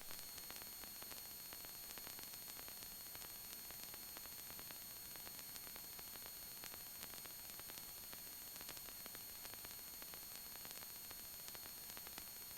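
Faint, steady electronic hiss from a cockpit intercom and radio audio feed, with a few thin high-pitched whines and light crackling.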